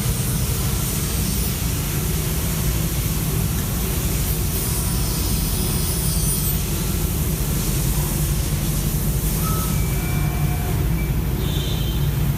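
Steady running noise of a CNC machining centre: a low hum under an even hiss. A few faint, short whining tones come in near the end.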